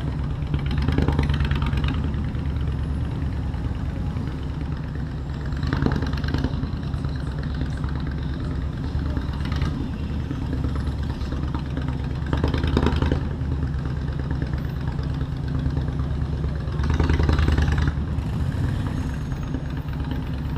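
Honda motorcycle engine running steadily at low revs, with four short louder swells spread through the stretch.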